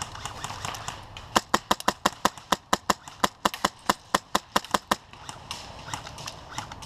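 Airsoft gun firing a rapid string of about twenty sharp shots, roughly six a second, starting about a second and a half in and stopping about two seconds before the end.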